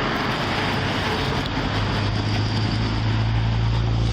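Steady rush of freeway traffic and wind on the microphone, with a low vehicle engine hum coming in about two seconds in.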